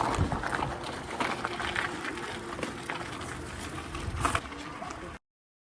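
Street noise heard while riding an e-bike, with faint voices in the mix and a brief louder burst near the end; the sound then cuts off to dead silence at an edit about five seconds in.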